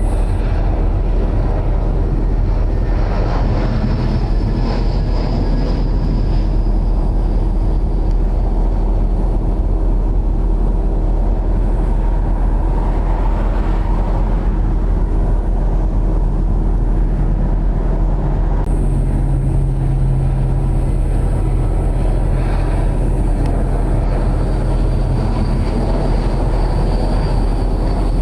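Jet airliner on short final, its engines running with a steady, heavy drone. A faint high whine slides slowly down in pitch a few seconds in.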